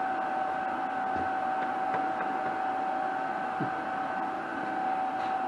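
A steady machine hum with a constant high tone, with a few faint knocks.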